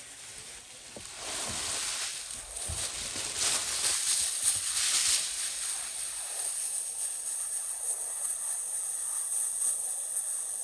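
A steady hiss that swells after about a second and a half, with a few faint low knocks early on.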